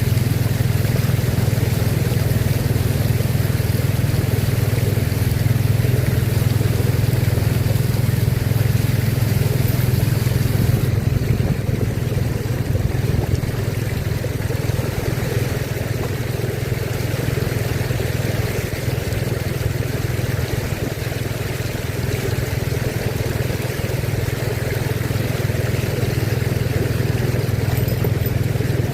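Steady low engine rumble over a continuous wash of noise from a flooded street; the hiss in the high end drops away about a third of the way in.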